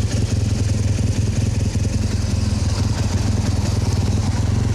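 BMW R 1200 GS flat-twin boxer engine running at low, steady revs, a constant low throbbing pulse.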